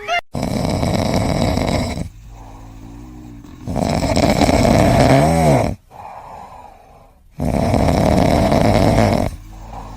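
Loud snoring: three long, rough snores about three and a half seconds apart, with quieter breathing between them.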